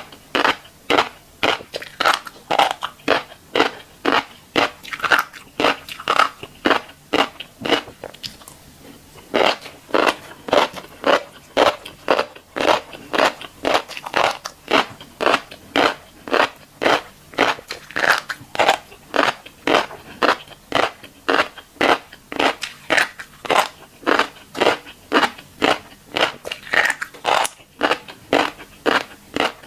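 Close-miked chewing of tiny black seeds, crisp crunches in a steady rhythm of about two a second, with a short pause about eight seconds in.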